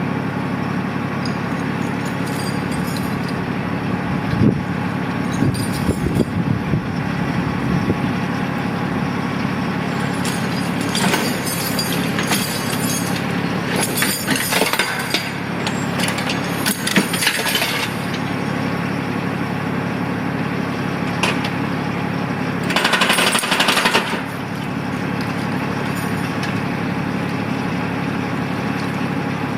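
Tractor engine running steadily, with bursts of cracking and scraping noise several times over it, the loudest about 23 seconds in.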